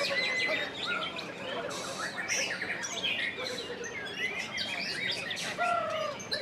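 Several caged songbirds, white-rumped shamas among them, singing at once: a dense tangle of varied whistles, slurred notes and chirps overlapping without pause.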